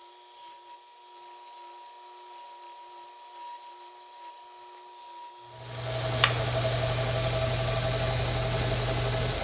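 Power sander rounding the corners of a small metal connecting-rod blank. A quieter steady motor tone gives way about five and a half seconds in to a much louder steady hum with a grinding rasp, which holds to the end.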